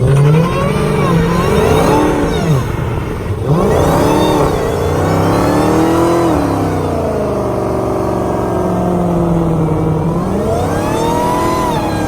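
Dodge Demon's supercharged V8 revving hard during a burnout: the pitch rises and falls several times, then is held high and steady, with a dip and a fresh climb near the end.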